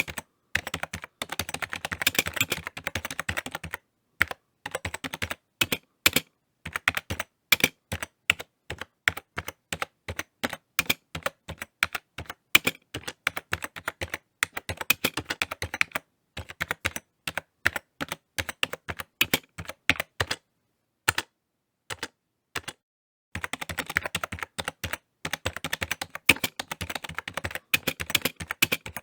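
Typing on a computer keyboard: fast runs of key clicks, slowing to separate keystrokes in the middle, with a few short pauses.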